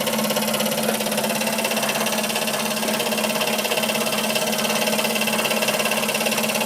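Stuart ST model stationary engine running steadily on compressed air, belt-driving a small dynamo, with a steady mechanical hum and a fine, fast, even beat.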